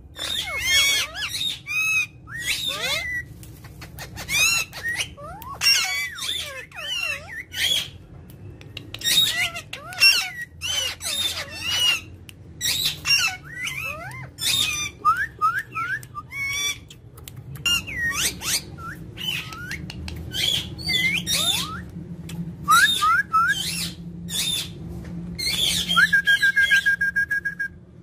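Indian ringneck parakeet calling: a long rapid run of short squawks and chirps that sweep quickly up and down in pitch. Near the end it gives one steady, fluttering high note lasting about a second and a half.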